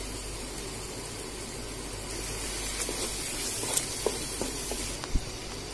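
Onion, tomato and spice masala sizzling steadily in hot oil in a pan, with a few light clicks between about three and five seconds in.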